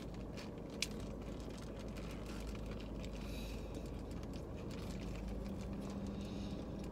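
Soft chewing and small wet mouth clicks from eating a fried chicken sandwich, over a steady low hum inside a car.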